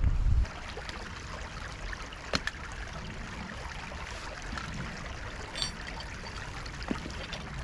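Small woodland stream running, a steady trickling rush of water. Wind rumbles on the microphone for the first half second, and a few light clicks sound over the water.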